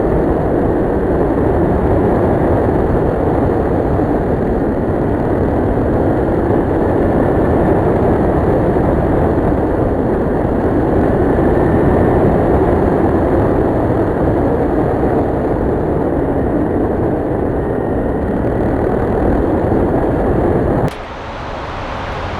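Kawasaki Ninja 650R being ridden at speed: a steady rush of wind on the microphone mixed with the parallel-twin engine running. It drops suddenly to a quieter level near the end.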